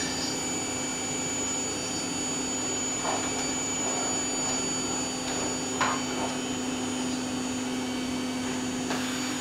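Household vacuum cleaner running steadily, its motor giving a constant hum with a high whine, with a few brief knocks about three and six seconds in.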